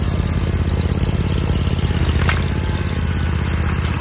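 An engine running steadily at an even speed, with a short sharp sound about two seconds in.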